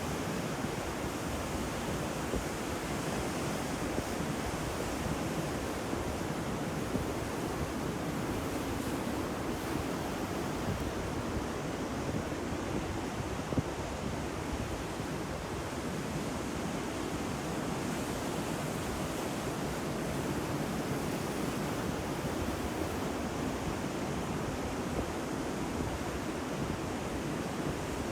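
Ocean surf washing continuously, a steady rushing wash with little rise and fall, and one brief sharper peak about halfway through.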